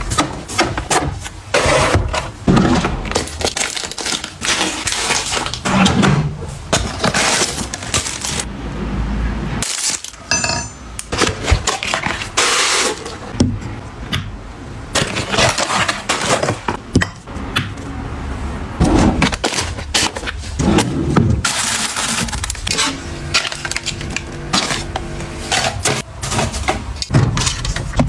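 Small household items and packaging handled and set down in quick succession: many clicks, knocks and light clinks with rustling between them.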